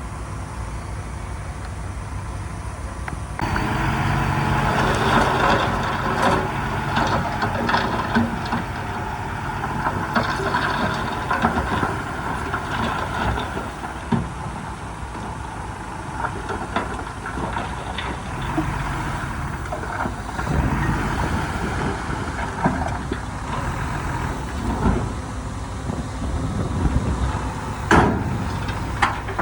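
Heavy diesel earthmoving machinery running and working, louder from about three and a half seconds in, with scattered metallic clanks and knocks.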